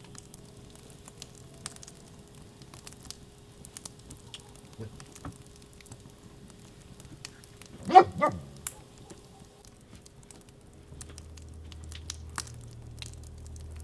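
A dog barks twice in quick succession about eight seconds in, against faint scattered clicks.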